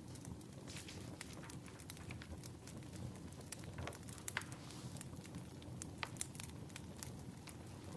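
Wood fire crackling: irregular sharp pops and snaps over a low, steady rush.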